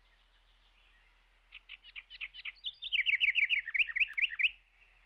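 A songbird singing one phrase, starting about a second and a half in: a run of short chirps that quickens into a faster, louder trill and then stops abruptly.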